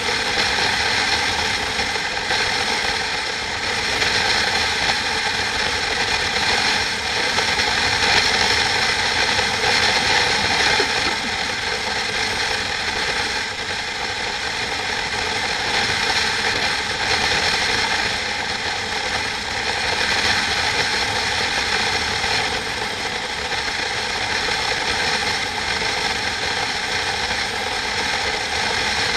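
Steady mechanical rattling and whirring with several steady tones running through it, holding level throughout.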